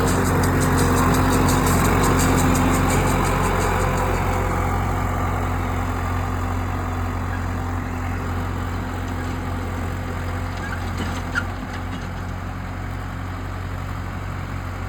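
Tractor engine running steadily, slowly easing off in level, with one short click about eleven seconds in.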